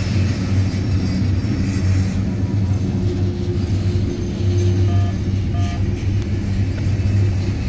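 Boxcars of a mixed freight train rolling past, a steady low rumble of steel wheels on rail.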